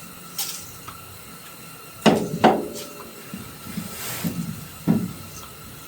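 Aerosol can of PB Blaster penetrating oil spraying in several short hisses, mixed with light clanks of the can and metal.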